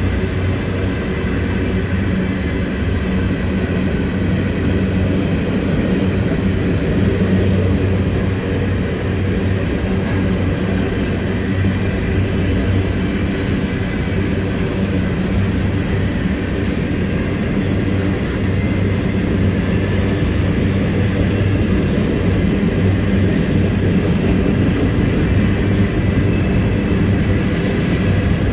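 Covered hopper cars of a freight grain train rolling past steadily, steel wheels running on the rail.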